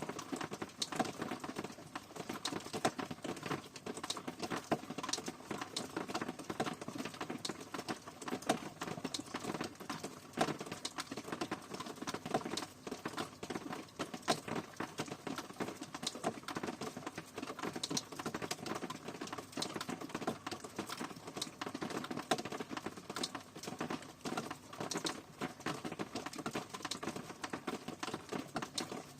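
Steady rain: a dense, irregular patter of drops ticking on a hard surface, with no let-up.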